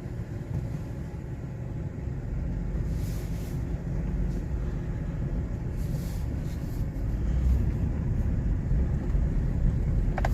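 Steady low engine and road rumble of a vehicle being driven, heard from inside the cab, growing a little louder toward the end.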